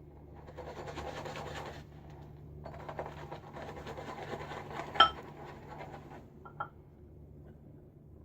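Old boar-bristle shaving brush scratching and swirling through soap lather in a bowl, in two spells. A sharp clink about five seconds in, and a smaller ringing one a moment later, as the brush or bowl knocks.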